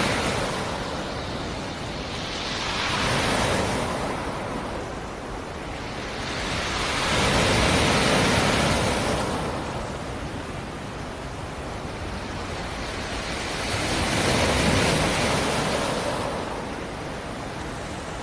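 Black Sea surf: waves breaking on the shore and washing back. Each wave swells and fades, one every four to six seconds.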